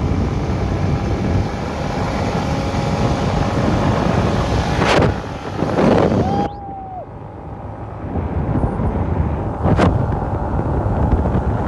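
Wind buffeting the microphone while riding, with a steady rumble of road and vehicle noise underneath. The sound drops suddenly about six and a half seconds in, then builds back up.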